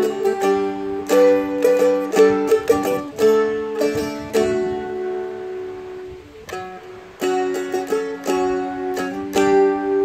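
Seagull Merlin M4, a four-string fretted dulcimer-style instrument, played with plucked notes and strummed chords. About halfway through, one chord is left ringing for a couple of seconds before the playing picks up again.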